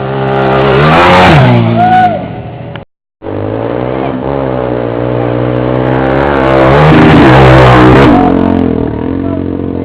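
A motorcycle passes close by at speed, its engine pitch rising as it comes in and dropping as it goes away. After a brief break about three seconds in, another pass builds slowly, is loudest about two thirds of the way through, then fades.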